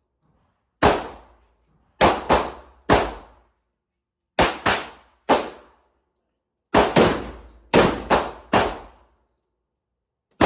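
A string of about a dozen gunshots at a shooting range, fired irregularly in pairs and triples, each one sharp and ringing out with a short echo.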